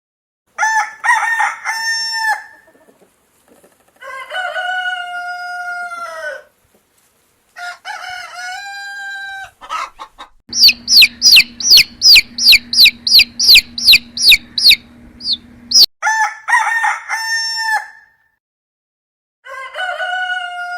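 Rooster crowing several times, each crow a separate call with short silences between. In the middle comes about five seconds of rapid high, falling calls, about four a second, over a steady low hum.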